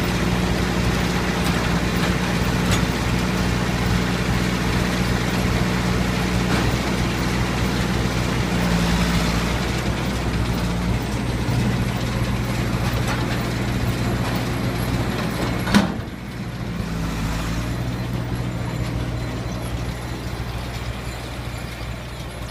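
Massey Ferguson 3060 tractor engine running steadily while the John Deere 550 round baler behind it clatters and rattles. A single sharp clunk comes about sixteen seconds in, after which the rattling is quieter and the sound slowly fades.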